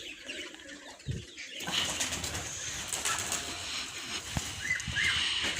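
Domestic pigeons and other household birds: wings flapping and scattered bird calls, with two short chirps near the end.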